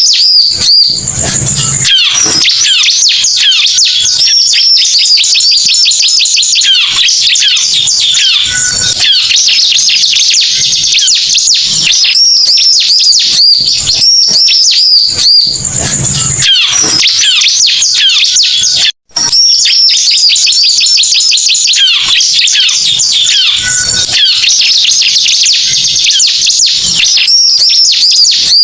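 Ciblek (bar-winged prinia) lure recording: loud, continuous, rapid high-pitched chirping and trilling song that repeats as a loop, with a brief cut to silence about two-thirds through.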